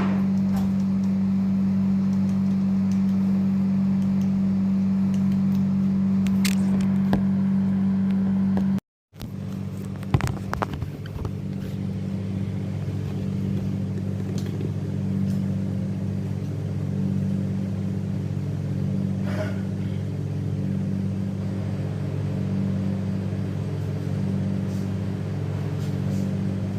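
Steady low machinery hum with a strong even tone, with a few light clicks and knocks. It drops out briefly about nine seconds in, then continues a little quieter.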